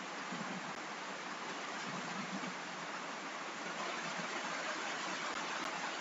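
Steady rain noise: an even hiss with no separate drops standing out.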